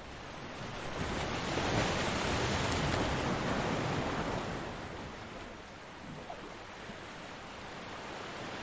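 Ocean waves breaking on a beach: one wave swells to a crash about two seconds in, washes out over the next few seconds, and the surf builds again near the end.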